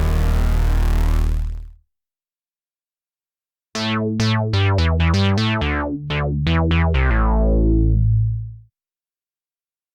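Cherry Audio P10 software polysynth playing bass presets. A sustained buzzy tone dies away at the start. After a short silence comes a bass line of about a dozen quick notes with bright, plucky attacks that darken fast, ending on a held low note near the end.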